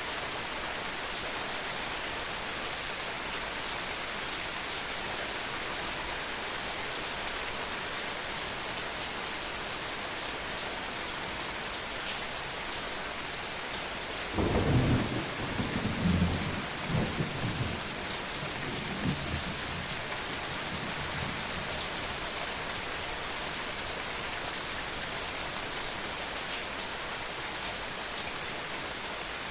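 Steady heavy rain falling, with a roll of thunder breaking about halfway through that rumbles for several seconds and fades, followed by a fainter rumble a few seconds later.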